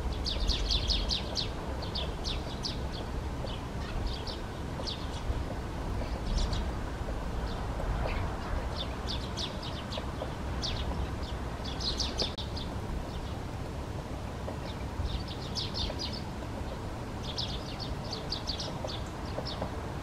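Birds chirping: short, high notes in quick clusters of several at a time, repeating throughout, over a steady low rumble.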